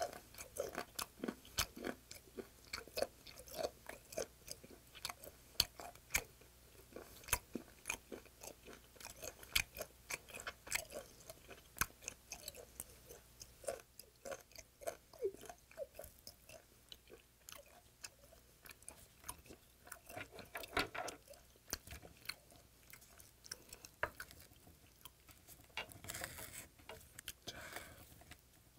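Close-up chewing of raw yellow stingray sashimi: a long, irregular run of wet clicks and crunches as the tough, still-firm cartilage is bitten and ground.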